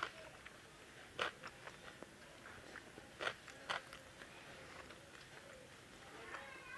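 Close-miked eating sounds: soft chewing of roti and rice with kofta curry, with a few short sharp mouth smacks, the loudest about a second in and twice a little past three seconds.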